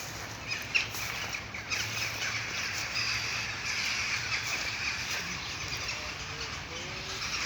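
Crows cawing.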